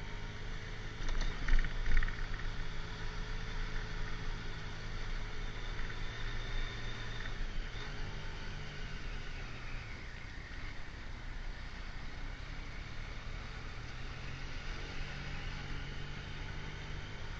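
Motorcycle engine running steadily while riding, with wind and road noise, and the engine note shifting slightly a couple of times. Two short loud buffets come about one and a half and two seconds in.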